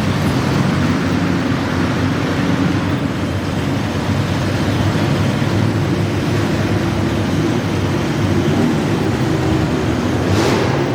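Modified garden tractor engine running loud and steady at the pull, heard close up from the tractor, its pitch wavering slightly. A brief rush of hiss comes in near the end.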